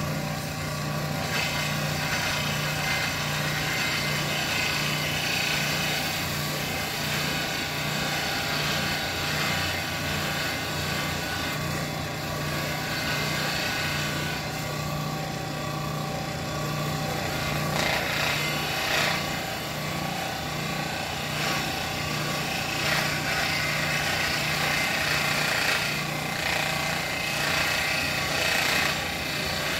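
Shop power tool running steadily with a constant motor hum, while a rough grinding and rubbing noise from work pressed against it swells and eases several times.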